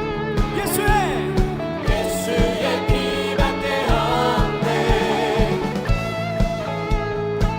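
Live contemporary worship band playing, with a steady kick drum beat about twice a second under sustained guitar and keys, and voices singing wordless, gliding lines.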